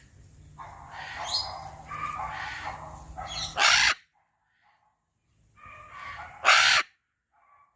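Macaw squawking: a run of harsh calls ending in a loud screech, then after a short pause more calls ending in a second loud screech.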